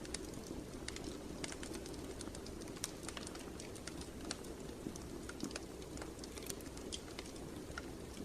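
Wood fire in a fireplace crackling: irregular sharp pops and snaps, several a second, over a steady low rush of burning flames.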